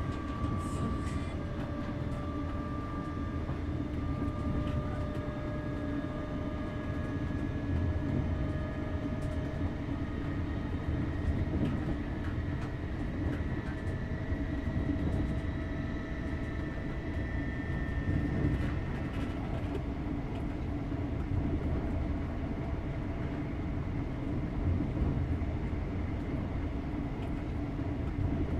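British Rail Class 321 'Renatus' electric multiple unit running, heard from inside the rear of a passenger coach. A steady rumble of wheels on the track carries a thin whine that slowly rises in pitch.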